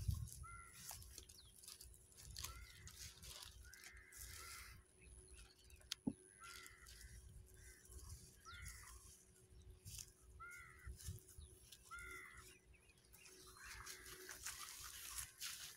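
Faint bird calls: about a dozen short, arching calls at uneven intervals, some coming in pairs. A single sharp click sounds about six seconds in.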